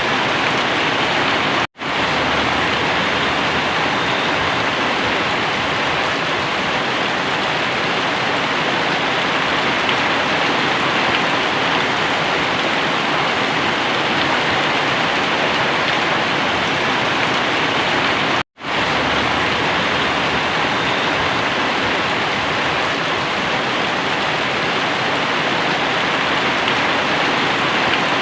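Very heavy rain pouring down, a loud, steady, even hiss of water, broken twice by a split-second silent dropout, about two seconds in and about two-thirds of the way through.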